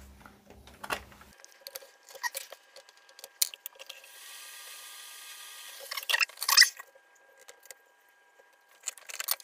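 Scattered small clicks and handling noises of parts and tools on a workbench, with a steady hiss for about two seconds in the middle and a louder flurry of rattling about six seconds in.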